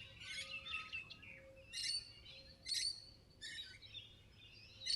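Wild birds calling in the bush, short bursts of high chirping calls repeating about once a second.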